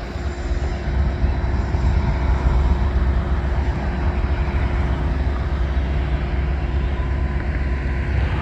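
Diesel locomotive idling: a steady low rumble with a constant hum over it.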